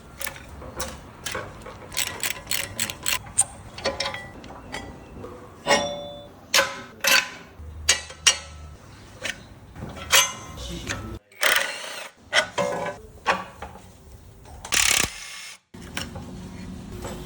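Hand tools on metal car parts during disassembly: a ratchet wrench clicking, with irregular sharp metal clinks and knocks. The sound cuts out briefly twice.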